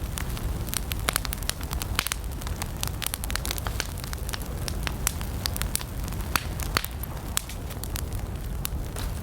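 Wood fire burning, with many sharp, irregular crackles and pops over a steady low rumble of the flames.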